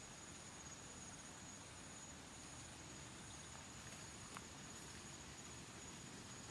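Faint, steady, high-pitched trilling of insects in the background, with a soft tick about four seconds in.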